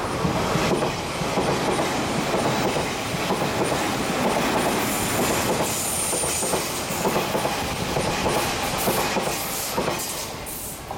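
Odakyu 8000 series electric commuter train passing close by, its wheels clattering over the rail joints with a steady running rumble. A brief high wheel squeal on the curve comes about six seconds in, and the sound fades near the end as the last car goes by.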